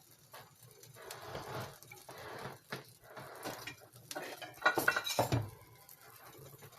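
A cooking utensil scraping and clinking against a frying pan as an omelet is folded and worked loose, with a louder cluster of knocks about two thirds of the way through.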